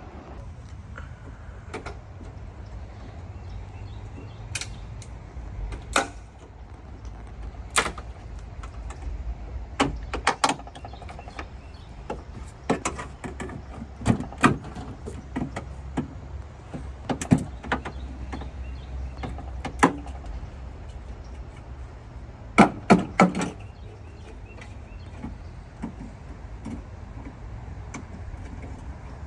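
Scattered sharp knocks and clicks of work on a car's rear hatch, with the loudest cluster near the end, over a steady low hum.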